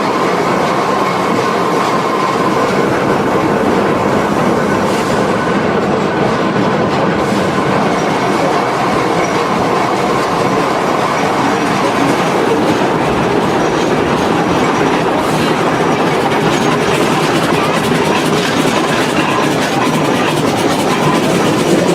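Steam train running steadily along the track: the continuous noise of its wheels and cars on the rails, with a faint steady high ringing over it.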